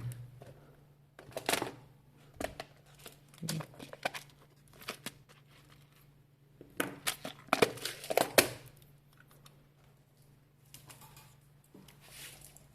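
Scattered handling noises of a bench repair: short clicks and knocks mixed with crinkling rustles, in bursts about a second and a half in and again from about seven to eight and a half seconds, over a faint steady low hum.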